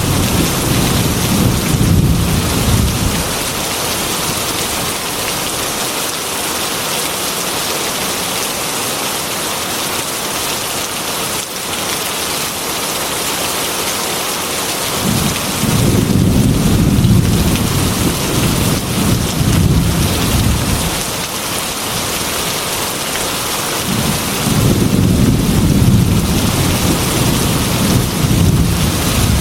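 Heavy rain beating steadily on a glass window, with rolling thunder rumbling three times: once at the start, once for several seconds about halfway through, and again near the end.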